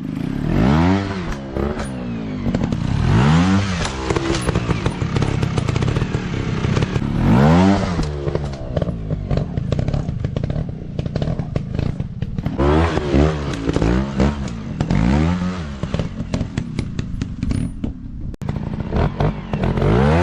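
Dirt bike engines revving in repeated short bursts, the pitch rising and falling again and again as the throttle is blipped, with clattering underneath.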